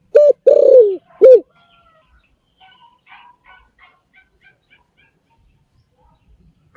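Spotted dove cooing: one phrase of loud, low coos, a short note, a long drawn-out note that falls in pitch, then a short falling note. Faint high chirps of small birds follow in a quick series.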